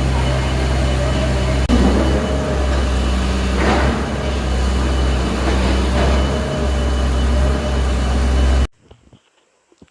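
A heavy engine running steadily, a deep drone that cuts off abruptly near the end.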